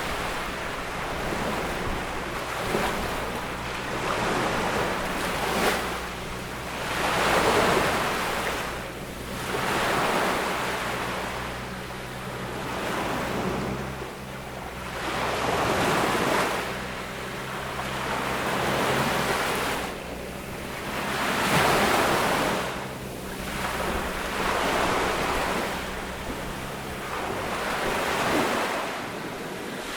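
Ocean waves breaking on a beach, the surf swelling and fading about every two to three seconds.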